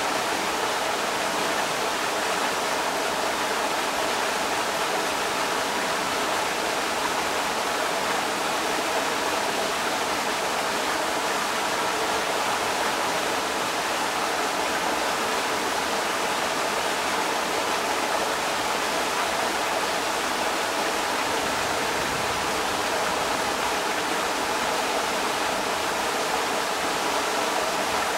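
Creek water rushing over rocks: a steady, unbroken rush with no pauses or changes.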